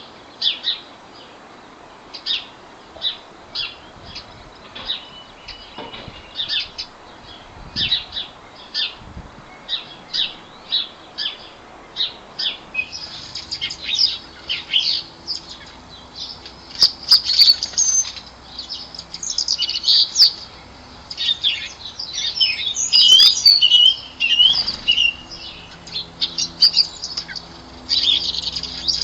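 Garden birds calling: a run of short, high chirps repeated about twice a second, growing busier and more varied from about halfway, with a few brief sharp flutters.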